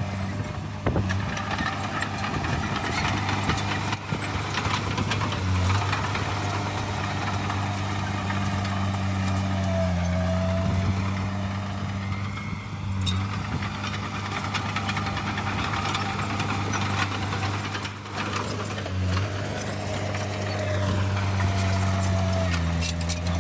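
Heavy diesel earthmoving machine engine running steadily, its note dipping briefly and recovering several times as it takes load, with light clanking over it.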